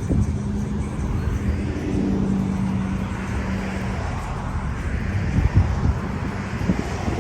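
Street traffic: a car engine holds a steady drone for about the first four seconds over a continuous low rumble of vehicles.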